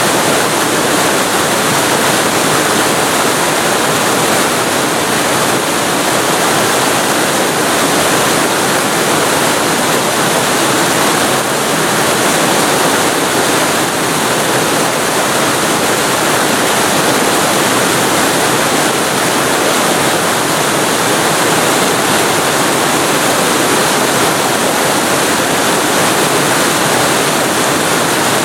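Waterfall recorded close up: a steady, loud rush of falling water with no changes or single splashes.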